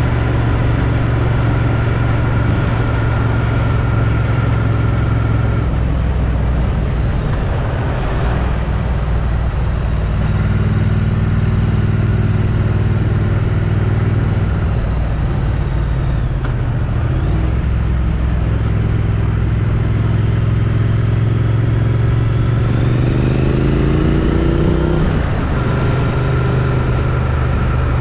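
Triumph Street Twin's 900 cc parallel-twin engine running through its stock exhaust while riding. The engine note holds steady, dips about a third of the way in and again past halfway, then climbs in revs and drops back near the end.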